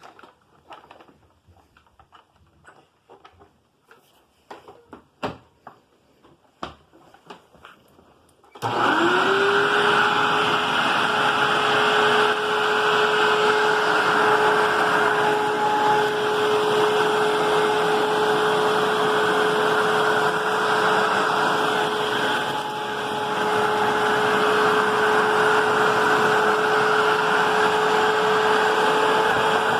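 A few light clicks and knocks, then a Hoover WindTunnel upright vacuum cleaner switches on about nine seconds in. Its motor whine rises quickly to a steady pitch and runs steadily after that.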